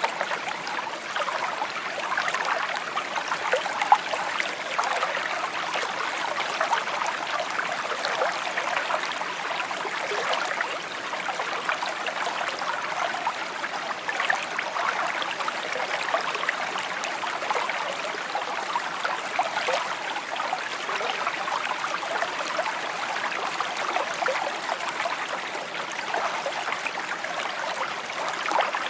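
A shallow stream babbling and trickling over stones, with a steady run of small splashes and gurgles.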